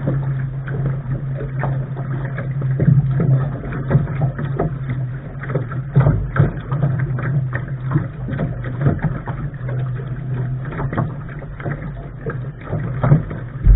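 Water splashing and slapping against the bow of a Lark sailing dinghy under way, with wind rumbling on the microphone and a steady low hum underneath.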